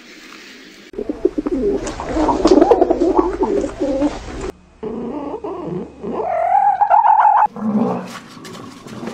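Animal calls cut together in three short clips: a dense run of low calls, then a call that rises and is held steady, then another low call near the end.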